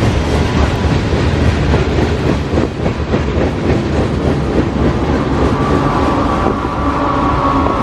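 Freight cars of a CSX mixed freight train rolling past at close range at about 25 mph, steel wheels clacking over the rail joints. About five seconds in, a high steady squeal from the wheels joins the rumble.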